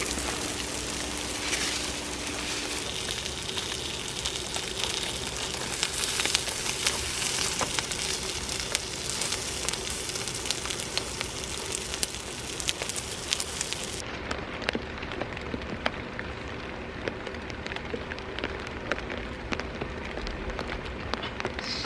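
Steady rain falling, an even hiss dotted with many small sharp ticks and patters. About two-thirds in, the sound turns duller.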